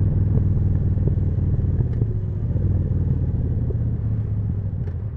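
Harley-Davidson Forty-Eight's air-cooled V-twin running steadily through a Jekill & Hyde exhaust, easing off slightly near the end.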